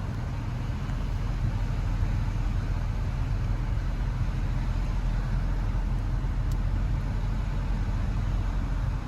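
Pickup truck rolling slowly down the road: steady low engine and road rumble with no change in speed.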